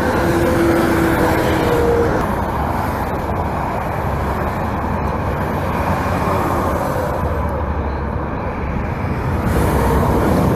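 Highway traffic passing below, with a steady rush of tyres and engines. A car horn is held for about the first two seconds.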